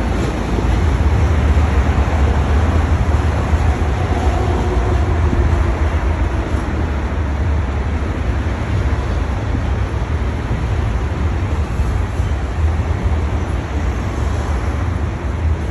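Long freight train rolling past, a steady low rumble of the cars going by.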